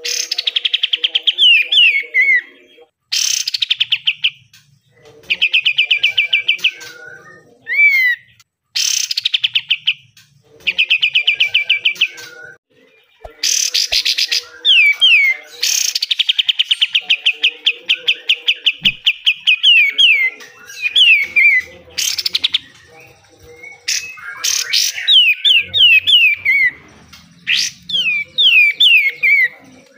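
Kapas tembak bulbul singing its rapid 'besetan' song: bursts of fast repeated notes, each run lasting one to four seconds, alternating with short falling whistled notes and brief pauses.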